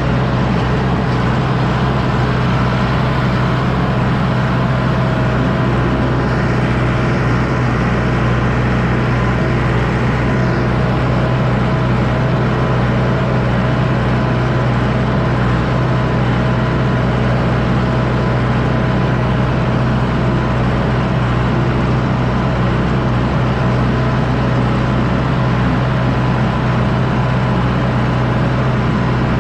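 John Deere 6110D tractor's diesel engine running steadily under load as it pulls a disc harrow, a constant loud drone with no changes in pitch.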